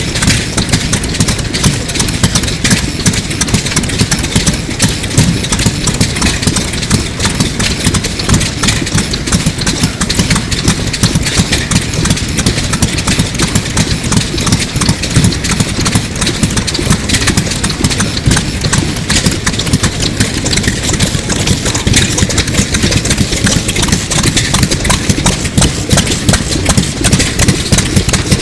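1930s Sato 2 hp semi-diesel hot-bulb engine idling steadily with a rapid, even beat.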